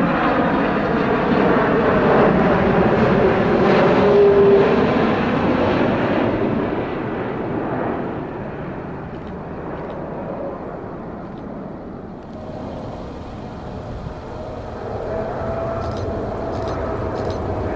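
Jet airliner passing, its engine noise loud for the first few seconds and then fading away as the high hiss drops off. A steady engine tone builds again near the end.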